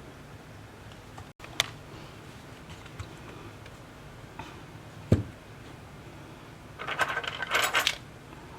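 Handling sounds on a workbench: a sharp click, a dull knock a few seconds later, then about a second of light metallic clinking and rattling from small metal objects near the end.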